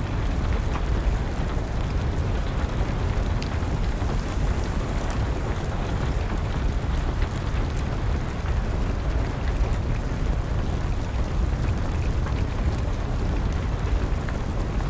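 Steady rain with a deep, even rumble, mixed with a wood fire's scattered small crackles and pops.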